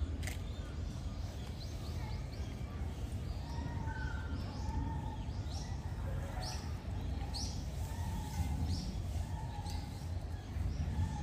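A bird chirping over and over in short, high calls, starting about three seconds in, over a steady low background rumble.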